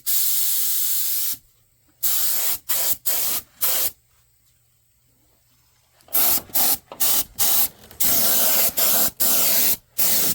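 Aerosol spray paint can spraying in repeated hissing bursts that start and stop sharply: a long squirt at the start, a quick run of short squirts, a pause of about two seconds, then another run of short and longer squirts.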